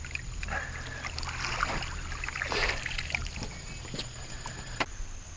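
Water sloshing and splashing lightly against a small boat, in irregular bursts, with a couple of sharp knocks near the end.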